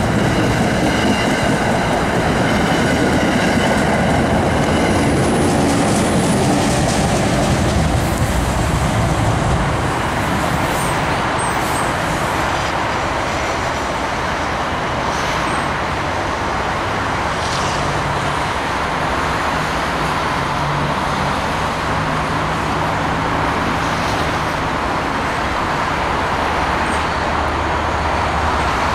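NJ Transit commuter coaches rolling past close by, wheels on the rails with high squealing tones. About ten seconds in the sound drops to a steadier, quieter rumble as an NJ Transit ALP-45DP locomotive approaches, with a low engine hum.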